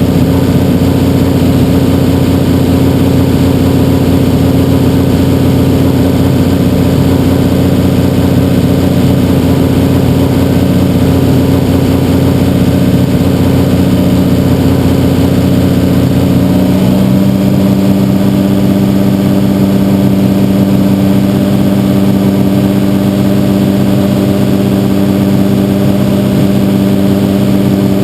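Rebuilt Toyota 1JZ-GTE turbocharged inline-six, fitted with aftermarket cams and a big turbo, running steadily at idle. About two-thirds of the way through its note shifts and settles at a different steady engine speed.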